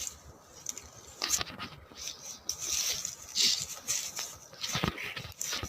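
Rustling and scraping in dry sticks and leaf litter, with a few sharp knocks and cracks scattered through.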